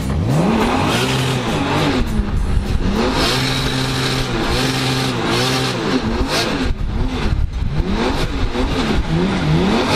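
Toyota Chaser drift car's engine revving up and down again and again, its pitch rising and falling every second or two, as it is held on the throttle through a slow drift.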